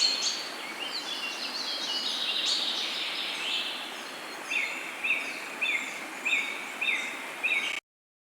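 Several wild birds chirping and calling over a steady background hiss. In the second half one bird repeats a short, slightly falling call about every 0.6 s. The sound cuts off suddenly near the end.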